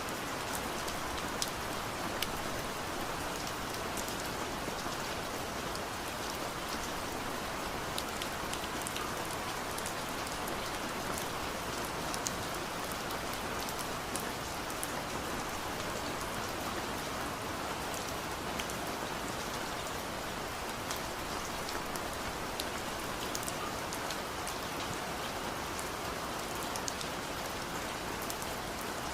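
Steady rain falling on a surface, a constant hiss with many small drop ticks scattered through it.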